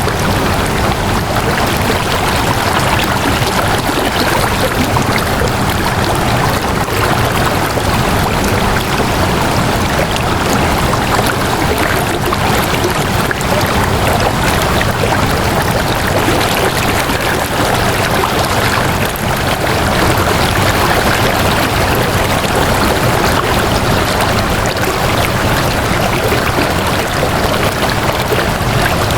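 Flowing water rushing steadily and evenly, like a stream, with no breaks or changes.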